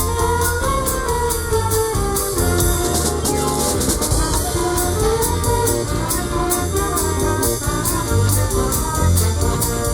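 Live band playing, with a drum kit keeping a steady beat under a melodic lead line of held, stepping notes.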